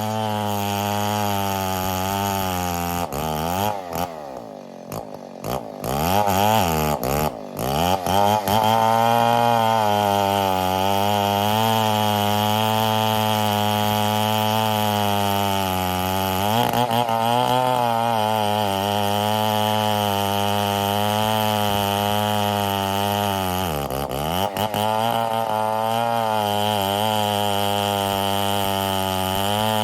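Stihl 070 two-stroke chainsaw running hard in a cut through ironwood. About three seconds in, the engine speed swings up and down and the sound drops back for a few seconds, then it settles into a steady cut again; the pitch dips briefly twice later on as the saw bogs under load and recovers.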